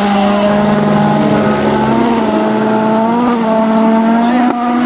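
2014 World Rally Car's turbocharged 1.6-litre four-cylinder engine running loud at high, nearly steady revs, flat out, with a brief waver in pitch about three seconds in.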